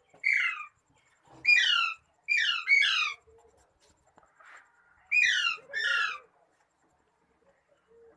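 A bird calling loudly: six short calls that each fall in pitch, in pairs and threes with short pauses between.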